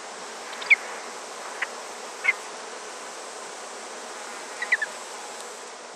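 Nature ambience of steady insect buzzing, with a few short high chirps: the loudest about a second in, others near the middle and a quick cluster near the end.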